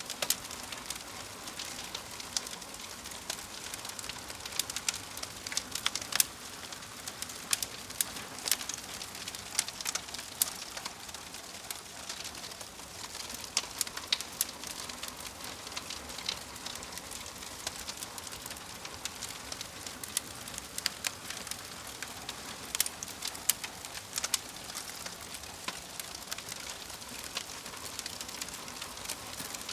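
Wood fire burning in a fireplace: a steady soft hiss with frequent sharp, irregular crackles and pops from the burning logs.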